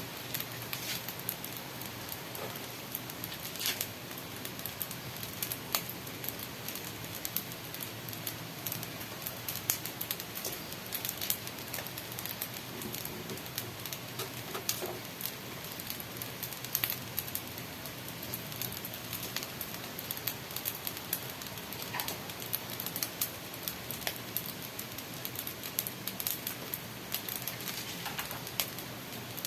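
Chicken frying in a pan: steady sizzling with many scattered crackles and pops.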